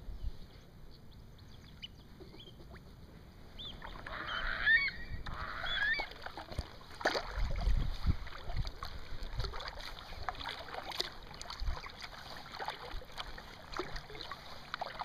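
Birds calling in a short run of rising and falling cries about four to six seconds in, over scattered paddle splashes and low wind rumble from the moving kayak.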